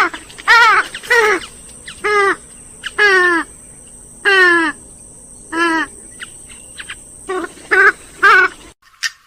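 Grey-headed swamphen calling: a run of about a dozen loud, nasal notes, each falling in pitch, given in irregular groups. The calls break off abruptly shortly before the end.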